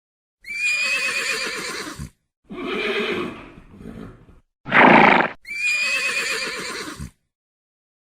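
Horse neighing: a shrill whinny, a lower call, a short loud burst, then the same whinny again.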